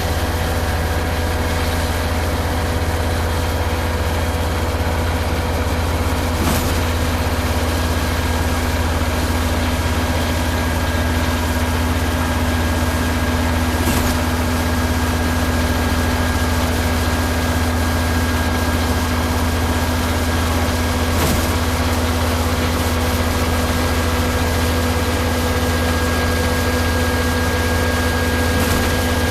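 Concrete boom pump truck's engine running steadily, with a steady hum and a faint knock about every seven seconds.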